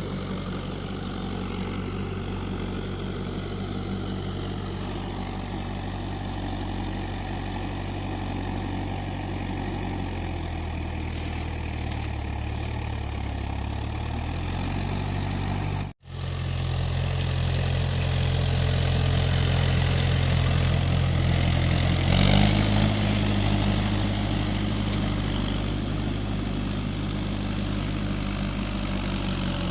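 Mahindra tractor's diesel engine running steadily. Its pitch shifts a little about a third of the way in, the sound cuts out for an instant about halfway, and the engine speed steps up and gets louder about three quarters of the way through.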